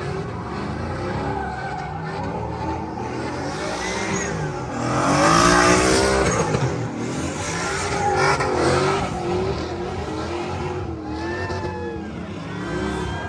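Truck engines revving hard and repeatedly during burnouts, pitch rising and falling, with tyre squeal; the loudest surge comes about five seconds in.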